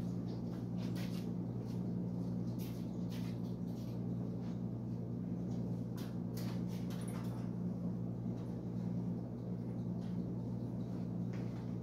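Steady low hum with scattered light clicks and taps from handling equipment.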